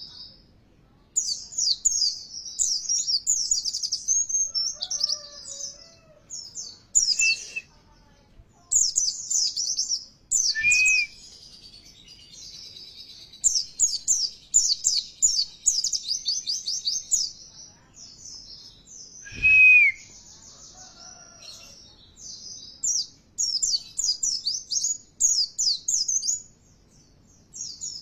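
White-eye (pleci) song: rapid, high-pitched twittering phrases in bursts of a few seconds with short pauses between, played as a lure to set caged white-eyes singing. A few short, lower, falling notes break in three times, the last and loudest about two-thirds of the way through.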